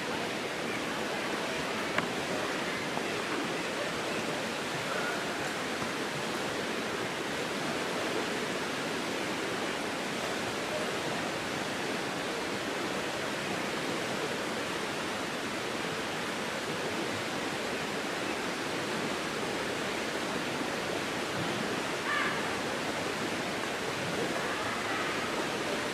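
Steady rush of running water from Minnehaha Creek, an even, unbroken noise, with a single sharp click about two seconds in.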